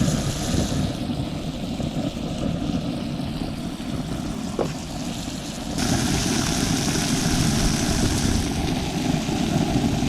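Redfish fillets sizzling in butter in a hot pan over a gas burner, a steady low rush with hissing on top. About six seconds in the hissing gets suddenly louder.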